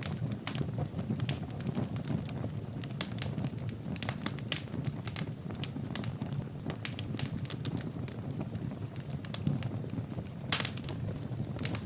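Wood fire burning in a fireplace: a steady low rumble of flames with many sharp crackles and pops at irregular moments, a quick cluster of them near the end.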